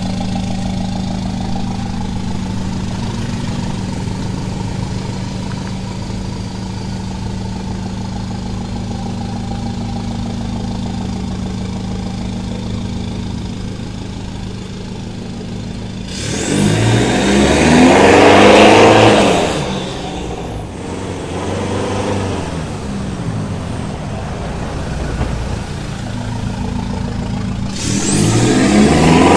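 Ford Raptor pickup engine idling steadily through a new full stainless-steel exhaust system. It is revved hard and let back down about two-thirds of the way in, blipped once more more lightly, then revved again near the end.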